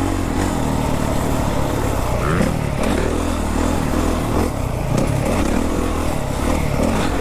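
Four-stroke motocross bike engine revving up and down as it is ridden through a berm turn, with heavy wind noise on the microphone.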